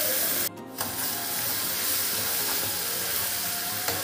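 Ground spice paste sizzling as it hits hot oil in a frying pan and is stirred with a spatula: a steady hissing frying sound, with a brief break about half a second in.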